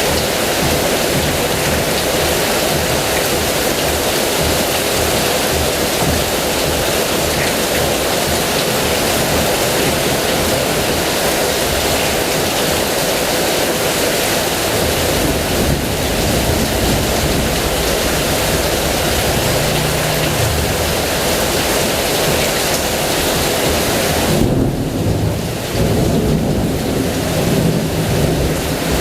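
Heavy rain falling steadily. Low rolling thunder rumbles in from about halfway and is strongest near the end.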